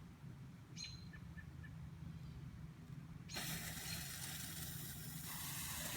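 A lit firework fuse hissing: a steady sizzling hiss that starts suddenly about three seconds in, over faint low background noise.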